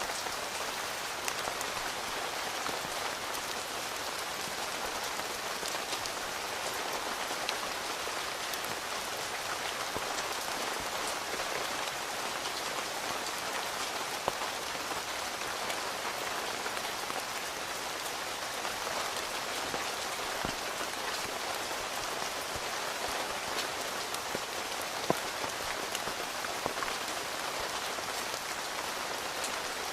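Steady rain falling on a tent, heard from inside, with a few sharper single drops striking the fabric.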